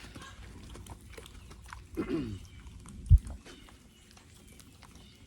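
A pig grunts once, a short call falling in pitch, about two seconds in; about a second later comes a single sharp low thump.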